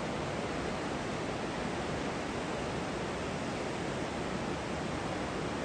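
A steady, even rushing noise with no tones or events in it. It starts and stops abruptly.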